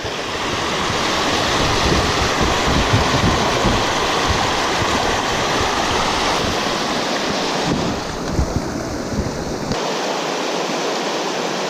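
River rapids rushing, a loud steady roar of white water over rocks, with wind buffeting the microphone until about ten seconds in.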